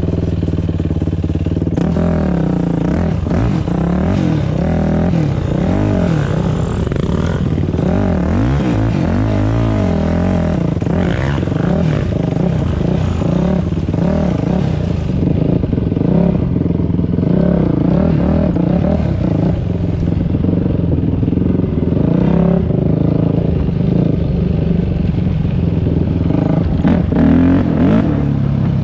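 Dirt bike engine running under way on a trail, its pitch rising and falling over and over as the throttle is worked.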